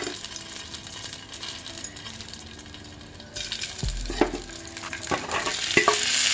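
Masala-stuffed brinjals frying in oil in a metal pan: a sizzle comes in suddenly about halfway through, with a few sharp knocks against the pan.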